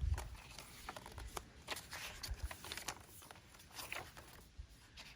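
Paper and card stock rustling as the pages, pockets and tags of a handmade paper-and-fabric journal are turned and handled, in scattered short rustles and clicks, with a low thump right at the start.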